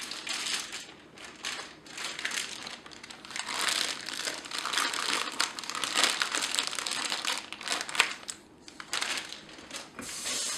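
Plastic wrapping crinkling and rustling in irregular handfuls with short pauses as a raw roasting chicken is unwrapped.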